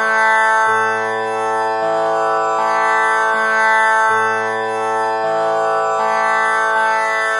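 Tanpura drone tuned to A (6 kattai): its strings plucked one after another in a steady repeating cycle of four, about one pluck every three quarters of a second, each note ringing on with a rich buzzing overtone sound that blends into a continuous drone.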